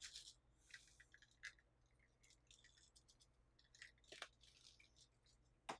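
Mostly near silence, broken by faint scattered clicks and crunches of someone eating crispy air-fried gyoza, sharpest about four seconds in and again just before the end.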